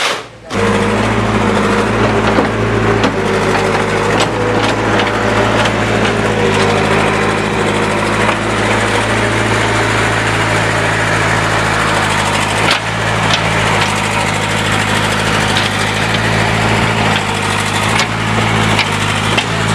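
A small engine running steadily at a constant speed, cutting in abruptly about half a second in.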